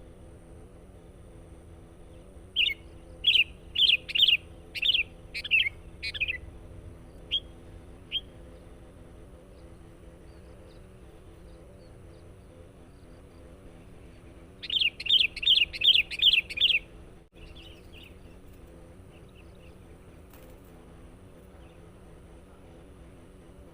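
Sooty-headed bulbul calling in bursts of short, loud chirping notes: a loose series a few seconds in, then a fast run of about eight notes past the middle. A faint steady hum runs underneath.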